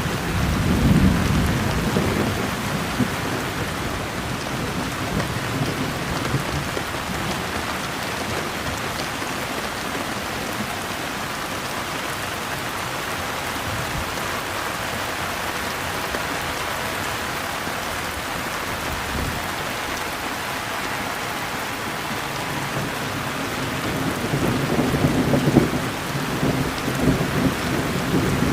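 Steady rain falling, with low rolls of thunder swelling in the first few seconds and again near the end.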